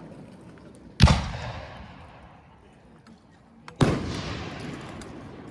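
Two fireworks shells bursting about three seconds apart, each a sharp bang followed by a long rolling echo that slowly fades.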